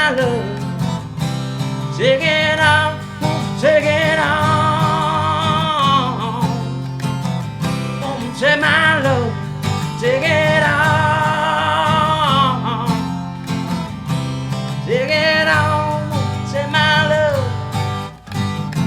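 Acoustic song: strummed acoustic guitars under long, held vocal notes with vibrato, sung without words between the guitar chords.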